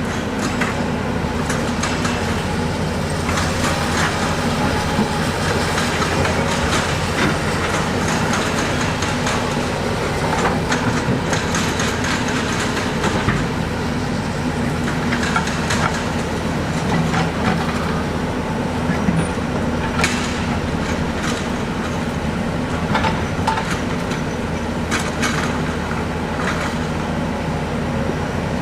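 Diesel engine of heavy construction machinery running steadily, with frequent clanks and scrapes of rock and metal.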